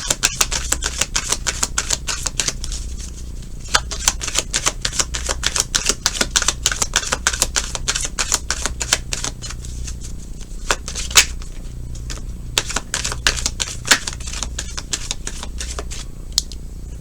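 Tarot cards being shuffled by hand: a rapid, irregular run of dry card clicks and flicks, with a louder snap about eleven seconds in, over a steady low hum.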